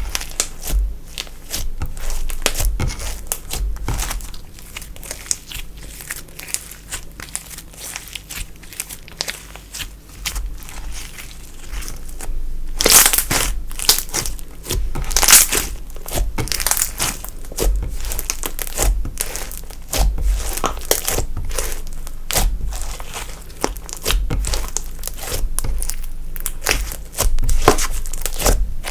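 Slime being squeezed and kneaded by hand, a dense run of sticky crackles and pops, with a louder cluster of crackling about halfway through.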